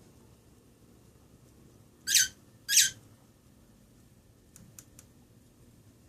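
A pet bird gives two short, shrill squawks about two seconds in, less than a second apart, followed by a few faint ticks.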